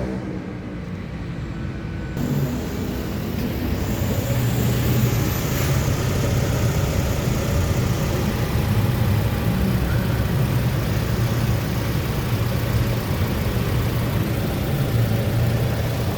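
A car engine running steadily with a low hum, louder from about two seconds in.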